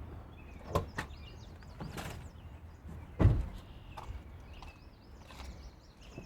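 A handful of sharp knocks and clatters, the loudest about three seconds in, over a low background rumble, with birds chirping faintly.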